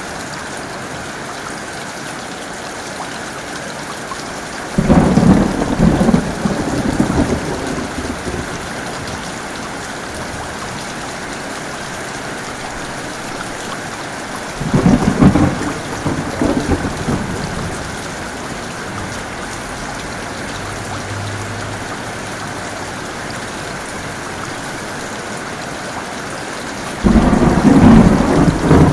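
Steady heavy rain with three sudden claps of thunder about ten seconds apart, each rumbling off over two or three seconds.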